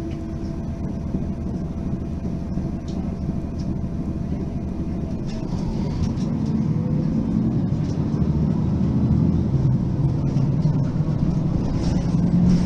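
Mercedes-Benz facelift city bus engine running, with a steady rumble that grows louder and rises a little in pitch from about six seconds in.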